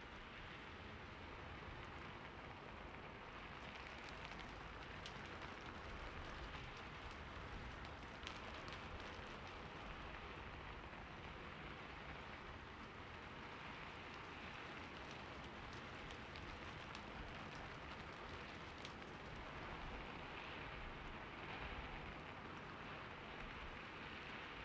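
Steady rain falling on a roof, an even patter with scattered individual drop ticks.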